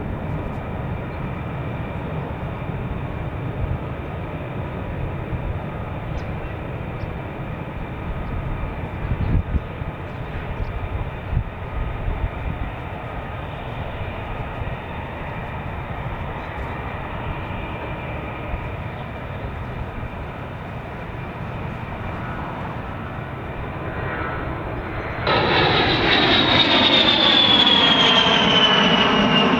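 Military jet aircraft engines running steadily with a faint whine. About 25 seconds in, after an abrupt change, a jet passes close and louder, its whine falling in pitch as it goes by.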